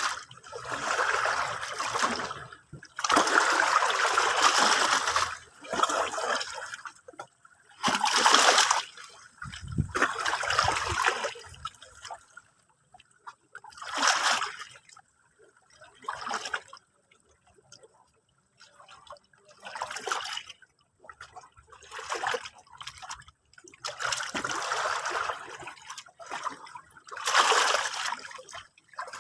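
Sea water washing and splashing in short, irregular surges of a second or two each, with quiet gaps between them.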